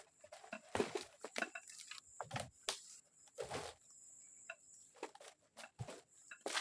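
Irregular rustling and crackling of forest-floor litter and twigs, about a dozen quick crunches in a few seconds, over a faint steady high tone.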